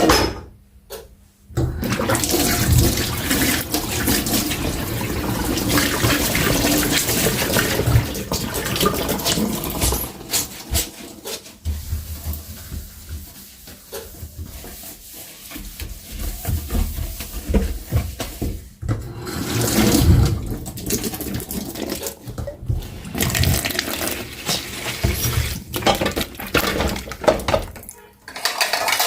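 Kitchen tap water running into a sink while dishes are washed by hand. The flow starts about a second and a half in and rises and falls, with occasional knocks of dishes.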